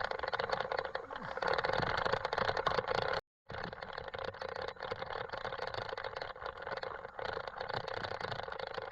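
Riding noise from a hardtail mountain bike on a rough road: steady tyre rumble with many small rattles and clicks, and wind on the microphone. It cuts out for a moment about three seconds in, then carries on.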